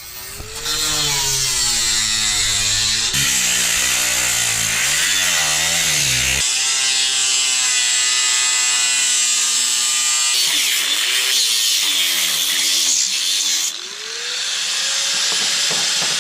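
Power saw running and cutting, its motor pitch dipping and rising as the load changes, with abrupt changes in the sound about six and fourteen seconds in.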